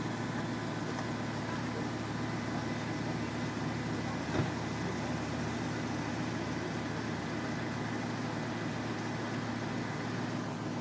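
Maserati GranTurismo's V8 idling steadily, with one short knock about four seconds in.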